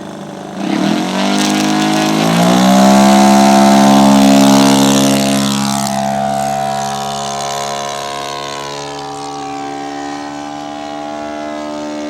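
Radio-controlled model seaplane's engine and propeller throttling up, its pitch rising sharply over the first couple of seconds to a loud, high run, then easing to a lower, steadier pitch.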